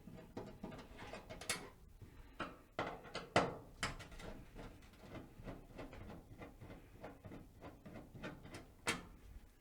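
Scattered light clicks and taps of a Phillips screwdriver removing two screws from a clothes dryer's top panel at the lint-filter opening, with a few sharper knocks now and then.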